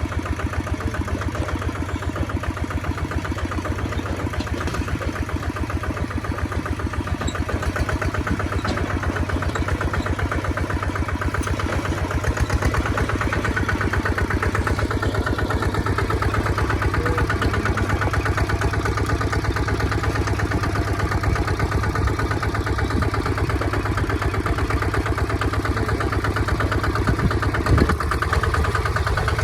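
Kubota ZT 155 DI single-cylinder diesel engine running steadily with a rapid, even firing beat, getting a little louder about twelve seconds in. One sharp knock near the end.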